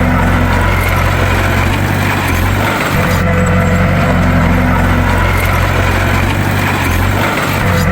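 Bulldozer's diesel engine running steadily with a deep drone, easing briefly about three seconds in and again near the end.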